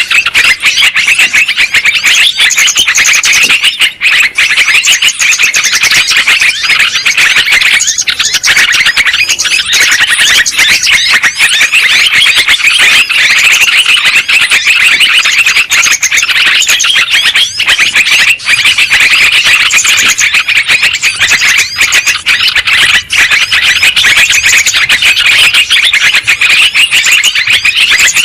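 Sooty-headed bulbuls singing and chattering without a pause, many quick warbled notes overlapping in a dense, loud chorus.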